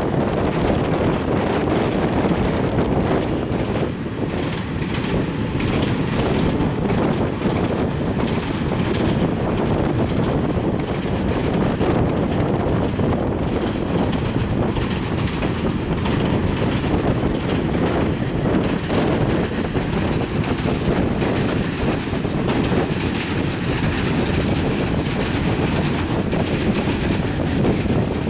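Freight train of oil tank wagons rolling over a rail bridge: a steady rumble with the clatter of wheels on the rails.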